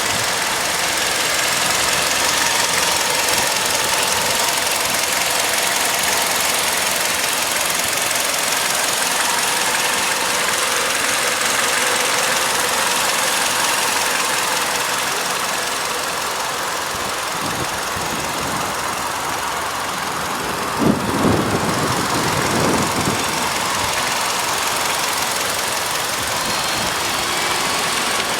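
2011 Kia Carens' 2-litre 16-valve DOHC inline-four engine idling steadily, with a few short thumps about three-quarters of the way through.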